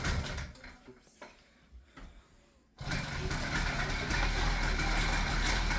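80cc two-stroke motorized-bicycle engine being started: a short burst right at the start, then about three seconds in it catches and keeps running with a rapid, even buzz.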